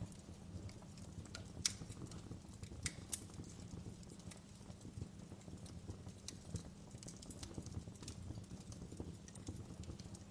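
Wood fire burning in a fireplace: a low steady rumble of flames with irregular crackles and pops, the sharpest about two and three seconds in.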